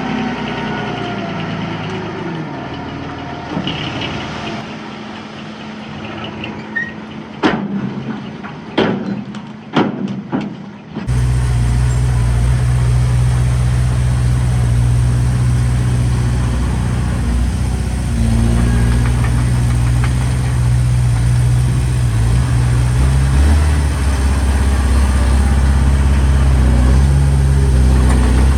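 Diesel engines of earthmoving machinery at work: an engine running with shifting pitch, with four sharp metal clanks between about 7 and 10 seconds in. At about 11 seconds the sound switches abruptly to a louder, steady, deep engine drone that carries on.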